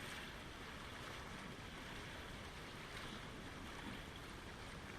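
Steady rushing water, an even noise with no breaks or distinct events.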